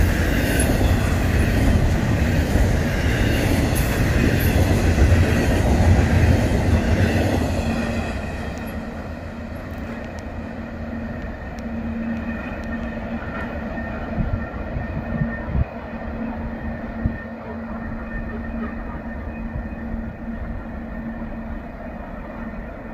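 Double-stack intermodal freight train rolling past close by, its well cars and wheels rumbling and rattling on the rails. About eight seconds in the sound drops to a quieter rolling noise with a steady ringing tone as the tail of the train draws away, with a few sharp clicks a little later.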